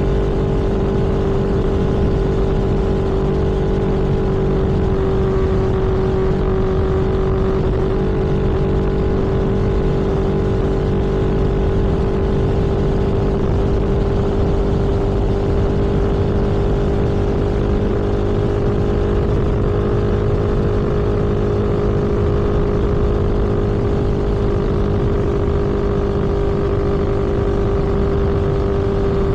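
Vehicle engine running at a steady cruising speed, an even drone with a constant low rumble beneath it and no change in pitch.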